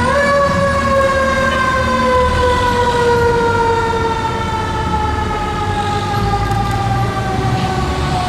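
Fire apparatus mechanical siren winding down after a quick spin-up, its wail falling slowly and steadily in pitch, over the low rumble of the rig's diesel engine.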